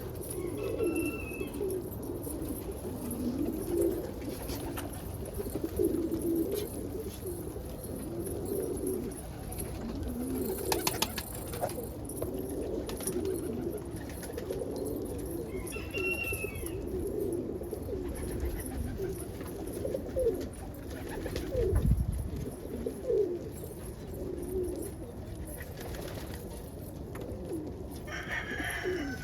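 Pet pigeons cooing over and over in low, repeated calls, with a few brief higher chirps and a single dull thump about three-quarters of the way through.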